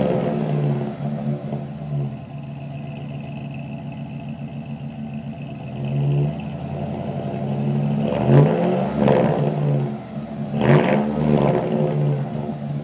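2008 Chevrolet Silverado exhaust through an MBRP cat-back dual split-rear system, idling and being revved. A rev drops back to idle at the start, the engine idles steadily, then it is blipped four times in two quick pairs in the second half.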